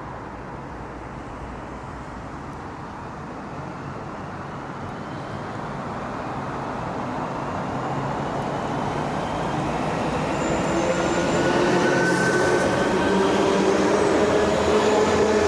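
Electric train approaching through the station, its running noise growing steadily louder. From about ten seconds in, a whine from the traction motors joins it.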